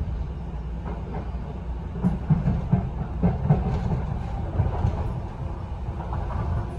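Docklands Light Railway train running on its track, heard from inside the front car: a steady low rumble, with a run of irregular clattering knocks about two to three and a half seconds in as the wheels cross the points of a junction.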